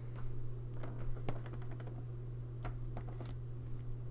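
Light handling of a cardboard game box, with a few faint taps and rubs, over a steady low hum.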